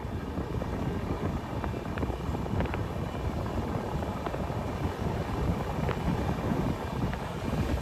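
A train running on the tracks: a steady low rumble with a few sharp clicks.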